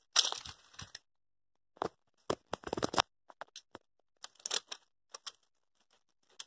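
Scattered clicks, scrapes and light rattles from a derailed Tyco model train's plastic cars and track, in short irregular bursts with quiet gaps.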